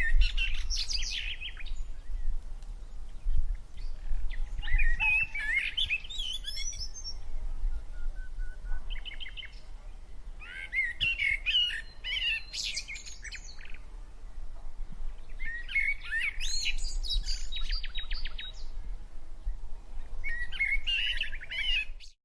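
Songbirds singing: bursts of quick warbling and trilled song phrases, each lasting a second or three and coming every few seconds, over a steady low rumble.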